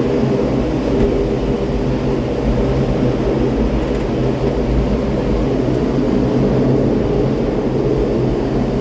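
Steady mechanical hum with a low rumble and several steady low tones underneath, unchanging throughout.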